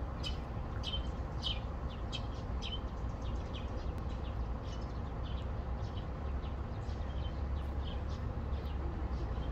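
Small birds chirping in short, high, down-sweeping calls, about two a second at first and sparser later, over a steady low rumble.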